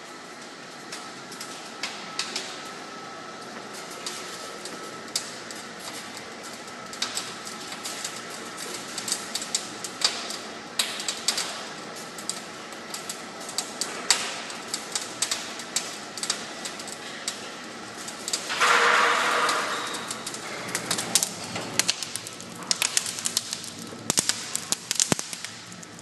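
Wood fire crackling in a fireplace firebox, with irregular sharp pops and snaps. A brief hiss comes about two-thirds of the way through.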